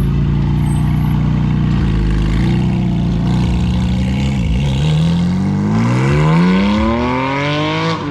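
A car engine running steadily, then dipping briefly about four and a half seconds in and revving up with a steadily rising pitch for the last three seconds; it cuts off abruptly at the end.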